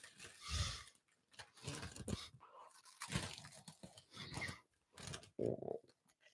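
Cheetos being chewed right at a microphone: wet crunching in irregular bursts about once a second.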